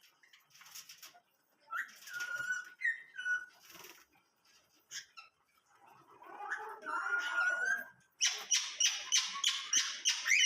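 Small pet birds (budgies, finches, cockatiels) chirping and whistling, with short held whistles and chatter, then a fast run of sharp chirps, about four or five a second, near the end.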